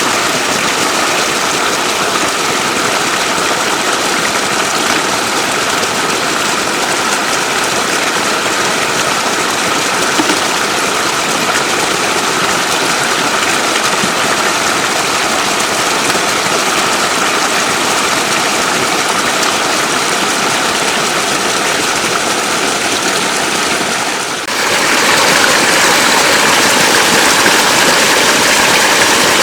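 Floodwater rushing steadily, with a faint steady hum under it; the sound changes abruptly about 24 seconds in and turns brighter.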